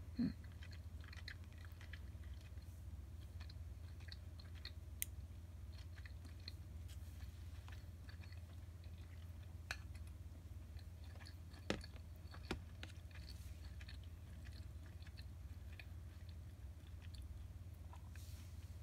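Quiet close-up chewing of a mouthful of simmered flounder, with small wet mouth clicks over a steady low hum and a few sharper clicks in the middle stretch.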